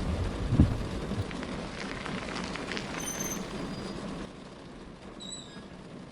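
Steady rain with a couple of low thunder rumbles in the first second. About four seconds in the rain drops to a quieter level, and a few brief high chirps come through.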